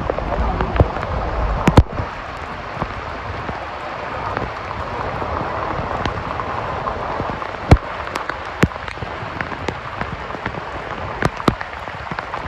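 Rain falling steadily, with several sharp, loud taps of drops hitting close by.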